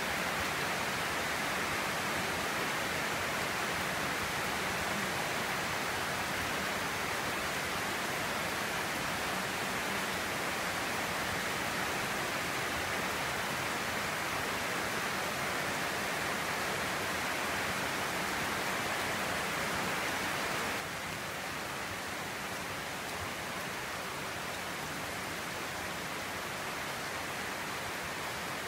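Steady rain falling, an even hiss. It turns abruptly a little quieter about three-quarters of the way through.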